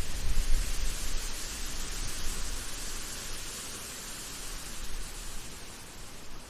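Forest ambience: a steady rushing hiss with an uneven low rumble, loudest in the first second.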